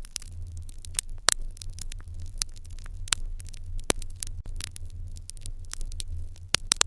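Wood fire burning in an irori hearth, crackling with irregular sharp pops, a few of them louder, over a steady low hum.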